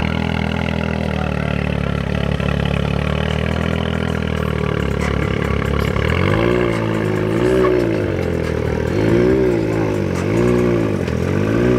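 A car engine running steadily, then revved up and down repeatedly from about halfway through, roughly one rev every second or so.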